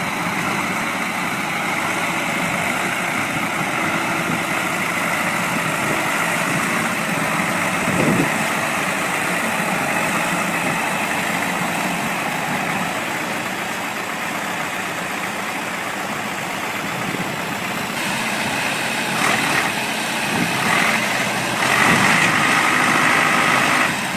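A large vehicle's engine running steadily, growing louder with a few sharp knocks in the last several seconds.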